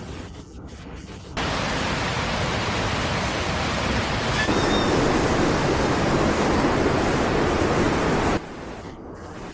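Loud, steady noise of rushing water. It starts abruptly about a second and a half in and cuts off abruptly near the end, over a fainter hiss.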